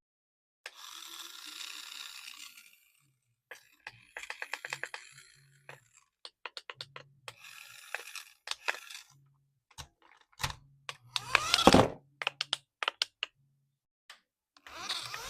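Hands unboxing a toy RC car: a run of sharp plastic clicks and ticks between stretches of rustling packaging, with the loudest scraping rustle a little past the middle.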